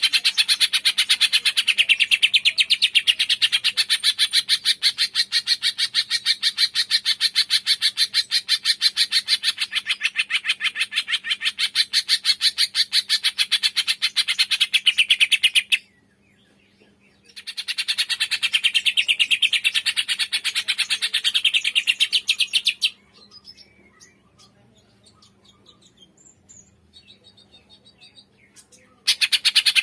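A songbird's rapid trill, about ten short notes a second, kept up for about sixteen seconds, breaking off, and resuming for about five seconds; then only faint scattered chirps until the loud trill starts again near the end.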